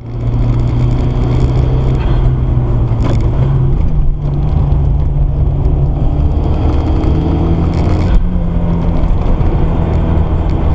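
Audi A4 B5's 1.8 T turbocharged four-cylinder engine running loud under way, its note stepping up in pitch about four seconds in and again about eight seconds in. The exhaust sounds like a leak: the catalytic converter has broken off at the turbo flange, so the turbo is exhausting openly.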